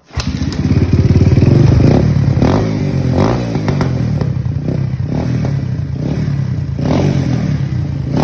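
Honda XR200R single-cylinder four-stroke dirt bike engine running through a stainless steel slip-on exhaust made for a CRF230F. It runs at a steady idle with a few quick throttle blips.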